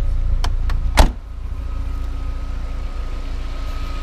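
The Audi 1.8T AJQ four-cylinder turbo engine idles steadily, not yet warm. About a second in, a couple of light clicks are followed by a loud slam: a car door being shut.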